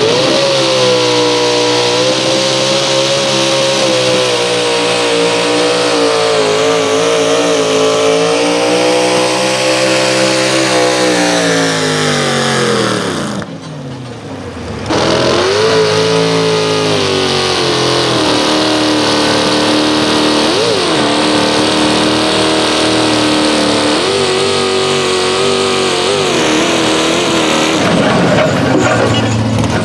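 Competition pulling engine running hard under load, its pitch wavering, then falling away about twelve seconds in. After a brief drop the engine sound comes back and runs on at high revs.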